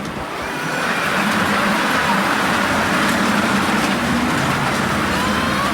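A miniature railway train running, a steady rush of rolling noise that swells about a second in, with faint squeals and voices in the background.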